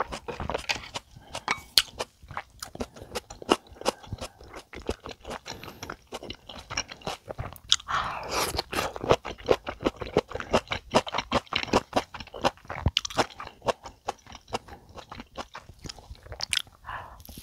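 Close-miked chewing of a person eating: irregular wet mouth clicks and crunches. About eight seconds in there is a louder, longer bite into crunchy stir-fried taro stems.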